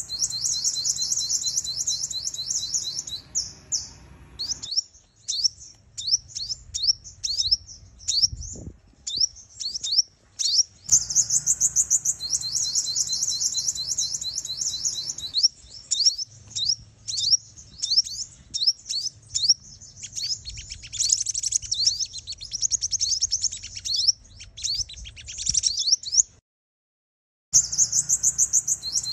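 Sunbird calls: fast runs of high, thin twittering trills broken up by separate sharp chirps, with a second-long break near the end. The calls are female sunbird decoy calls, used to excite males.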